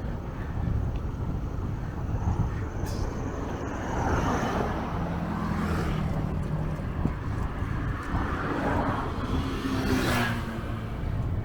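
Street traffic heard from a moving bicycle, with wind rumbling on the microphone. A motor vehicle's engine hum rises and fades in the middle, and a louder rush of a passing vehicle comes near the end.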